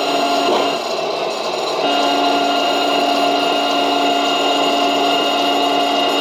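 Small electric motor and gearing of a toy vehicle whining steadily, easing off for about a second near the start and then running on.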